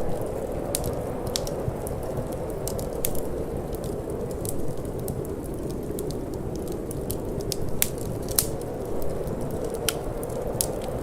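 Wood fire crackling in a fireplace: irregular sharp pops and snaps, a few louder ones about eight seconds in, over a steady low rushing of wind.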